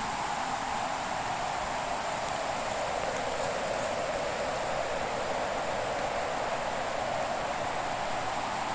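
Fireplace ambience: a steady rushing hiss that slowly sinks and rises in pitch, with only a few faint crackles from the burning wood.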